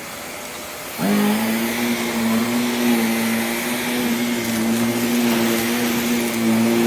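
Vacuum cleaner running: a steady hiss that, about a second in, jumps to a louder, steady motor hum as it gets to work pre-vacuuming the rugs.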